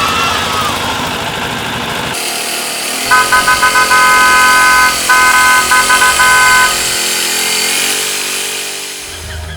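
A vehicle horn honking loudly about three seconds in: a run of quick toots, then longer blasts, broken by more quick toots, for about three and a half seconds.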